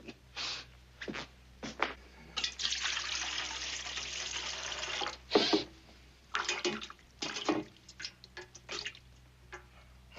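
Water running or pouring for about three seconds, with short knocks and clatters before and after it.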